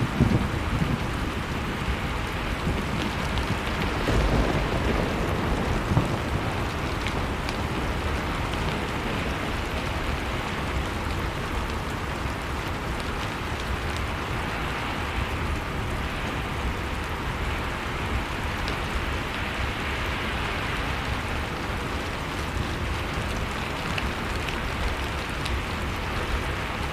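Wood fire crackling with scattered sharp pops over the steady rush of storm wind and a deep low rumble, swelling briefly a few seconds in.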